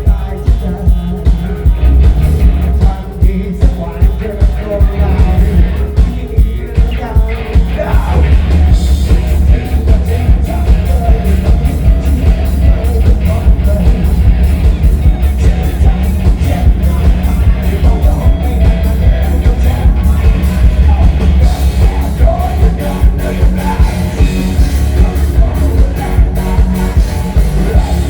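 Live rock band playing loudly with a singer's vocals over a heavy bass and a steady drum beat.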